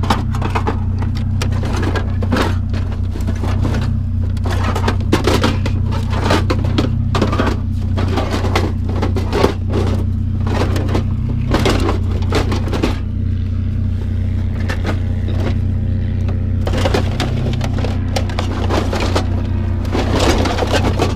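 Repeated clatter and knocks of scrap parts being handled and worked on, over the steady hum of an idling vehicle engine. The clatter thins out for a few seconds past the middle, then picks up again.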